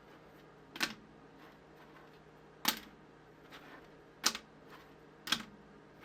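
Sharp plastic clicks and taps from a flexible TPU-printed articulated toy being handled and moved: four louder clicks at uneven intervals of a second or two, with fainter ticks between.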